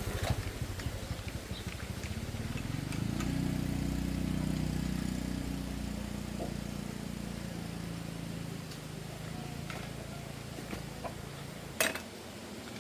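An engine of a passing motor vehicle, a steady low hum that swells a couple of seconds in and slowly fades away. A single sharp click near the end.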